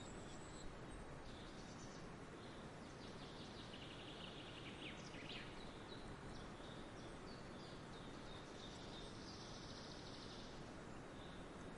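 Wild birds singing faint chirps and trills, over a steady outdoor background hiss. Two stretches of rapid trilling stand out, one around four to five seconds in and one near ten seconds in.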